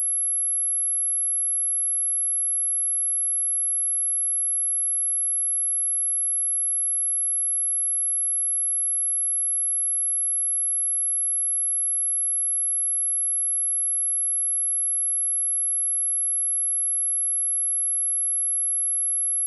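A steady, high-pitched pure sine tone at 11127 Hz, held unchanged throughout: a speaker test tone.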